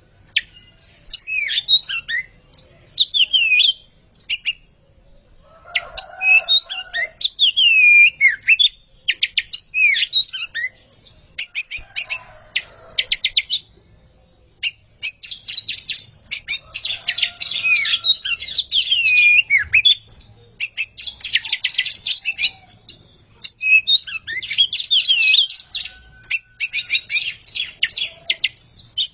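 A pair of oriental magpie-robins (kacer) singing against each other: fast runs of sharp repeated notes mixed with whistled notes that slide up and down. The song comes in long bouts with a few short pauses, and now and then a lower, rougher note.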